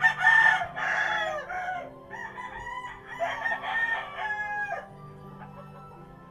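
A bird calling: two long, loud calls, the first at once and the second about three seconds in, each dropping in pitch at its end.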